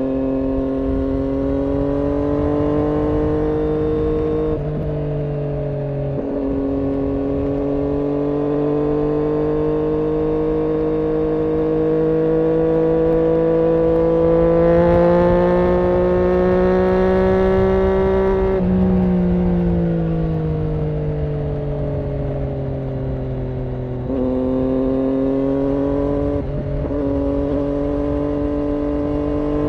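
Triumph Daytona 675's inline three-cylinder engine running through an IXIL aftermarket exhaust. The pitch climbs slowly and falls back, with a few sudden steps in pitch.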